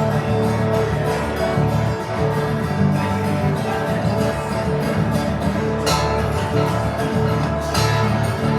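Live music with a strummed acoustic guitar.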